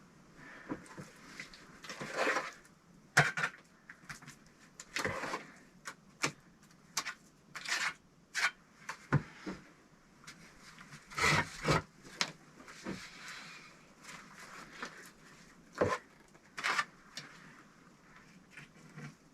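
Irregular knocks, taps and scraping of bricks and tools being handled during bricklaying work on a stove, with a dozen or so sharp strikes spread unevenly.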